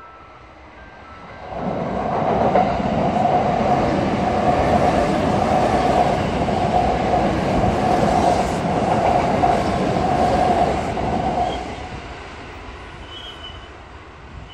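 Kintetsu electric train passing close by, loud from about a second and a half in, with a steady whine running through the rumble of the wheels. About eleven seconds in it fades quickly as the train moves away.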